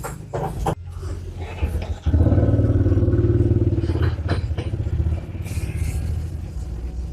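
A motor vehicle engine running steadily, rising sharply in level about two seconds in and easing after about four seconds, with a few sharp clanks over it.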